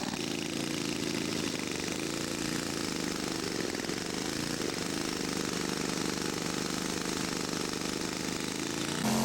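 Radio-control scale model airplane engine running at low throttle, its pitch wavering slightly as the model rolls out after a three-point landing. Near the end it cuts abruptly to a louder model engine at higher revs, rising in pitch.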